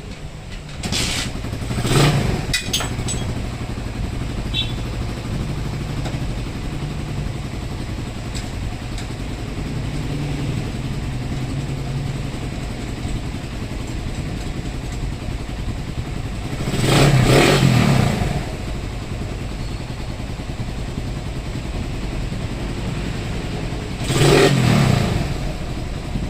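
Suzuki Raider 150's single-cylinder four-stroke engine idling steadily, with the throttle blipped three times: briefly about two seconds in, then longer revs near the middle and once more near the end.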